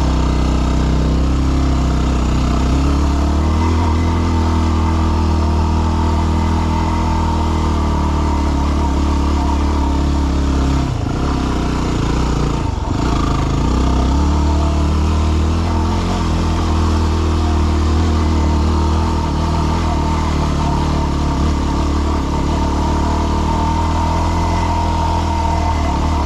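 Yamaha WR250R's single-cylinder four-stroke engine pulling steadily at low revs up a rough trail, with the revs dipping briefly and picking up again twice about halfway through.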